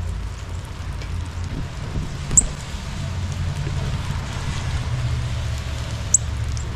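Steady rain falling, with a steady low rumble underneath. Two short high-pitched chips stand out, about two and a half seconds in and again near the end.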